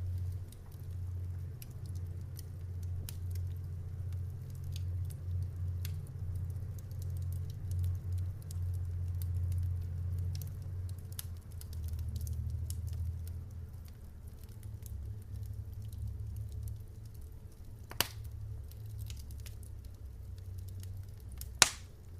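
Wood fire crackling in a fireplace: scattered small crackles over a steady low rumble, with two sharper, louder pops near the end about three and a half seconds apart.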